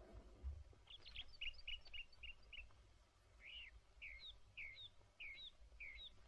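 Small birds chirping faintly: a quick run of short chirps about a second in, then five separate swooping chirps roughly half a second apart.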